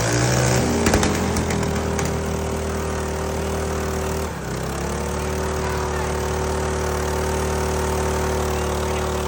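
Minibike engine revving briefly, then running at a steady high speed. About four seconds in it dips for a moment and settles at a slightly higher pitch.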